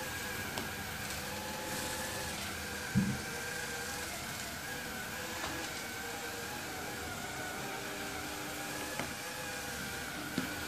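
Sharp robot vacuum cleaner running with a steady motor whine, with one low thump about three seconds in and a couple of faint clicks near the end.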